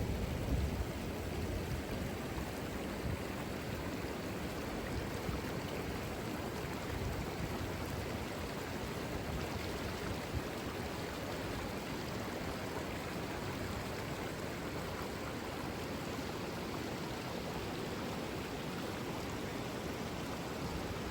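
Saluda River flowing: a steady, even rush of moving water.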